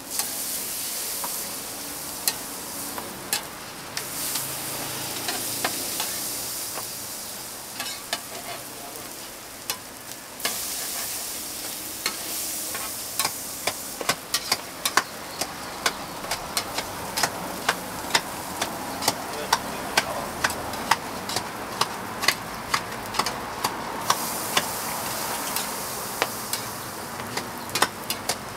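Food sizzling on a hot griddle, the hiss swelling and easing in stretches. From about halfway on, sharp taps sound about twice a second over the sizzle.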